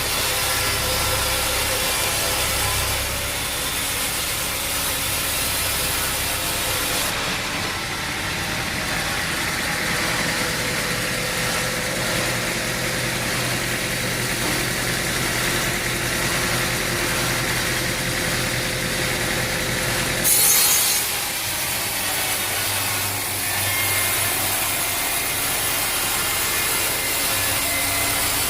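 Sawmill saw running and cutting through an oak log, a steady rasping machine noise, with a brief louder hiss about two-thirds of the way through.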